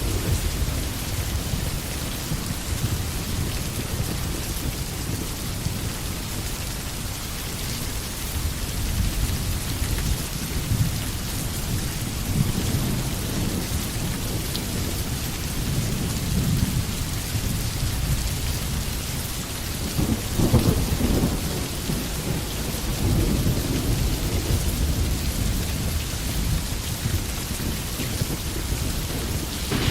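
Steady rain falling in a forest, with low rumbling thunder underneath. A louder roll of thunder comes about two-thirds of the way through.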